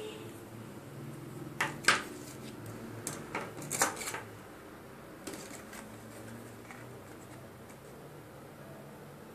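A few sharp clicks and knocks of hard objects being handled, clustered about two and four seconds in, over a low steady hum.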